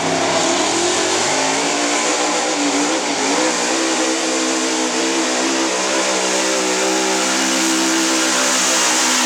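Gas engine of a hot gas 4x4 pulling truck running hard at high revs. Its pitch climbs in the first second or so, then holds high and steady with small wavers.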